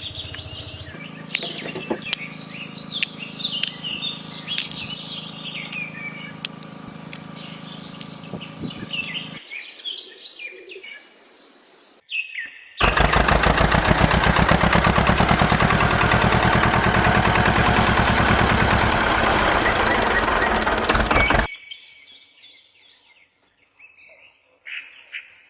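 Birds chirping over a steady hum, then, after a sudden cut about thirteen seconds in, a loud machine running steadily for about eight seconds before stopping abruptly, with faint chirps again near the end.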